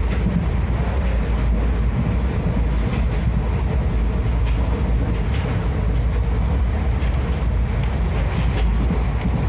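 Passenger train running at speed on the rails: a loud, steady rumble with many quick clicks from the wheels.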